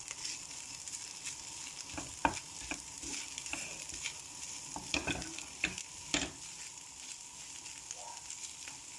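Sardines frying in oil in a pan, a steady sizzle, with a utensil clicking and knocking against the pan several times in the middle as the fish is stirred.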